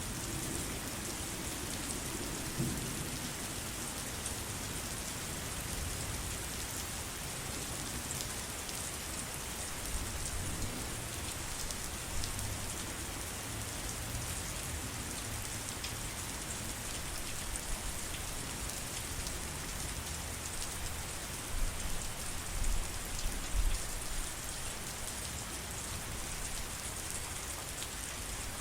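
Steady heavy rain falling, with dense pattering on surfaces. A few brief low rumbles and thumps rise above it near the end.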